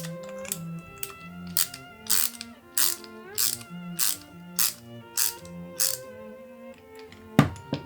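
A run of evenly spaced, sharp mechanical ratcheting clicks, about one every 0.6 s, over background music with violin; a single sharper knock near the end is the loudest sound.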